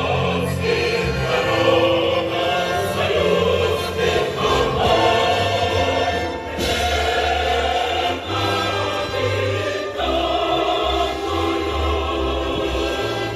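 A choir singing with instrumental accompaniment, held notes over a steady bass line.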